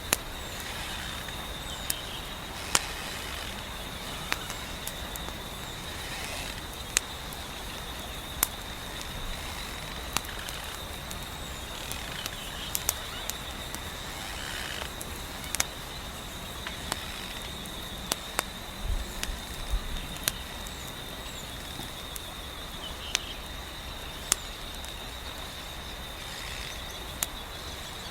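Wood fire crackling, with irregular sharp pops and snaps over a soft, steady hiss, joined by a continuous high trill.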